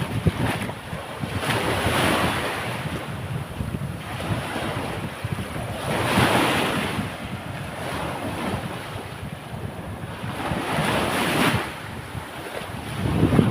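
Sea waves breaking and washing up the beach, surging three times, loudest about halfway through, with wind rumbling on the microphone.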